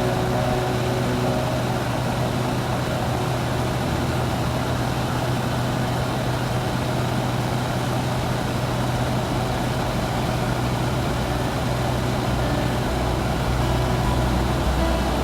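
Steady engine drone with a constant low hum and an even rushing noise, as heard inside a moving vehicle.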